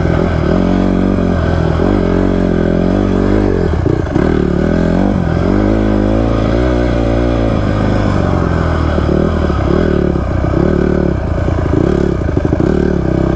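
Honda CRF150R dirt bike's single-cylinder four-stroke engine under way, revving up and falling back again and again as the throttle is worked; the throttle is touchy and snappy.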